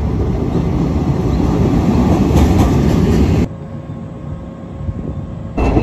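Series 381 limited express electric train running into a station, its wheels rumbling loudly on the rails. About three and a half seconds in it cuts abruptly to a much quieter steady hum with faint tones while the train stands at the platform.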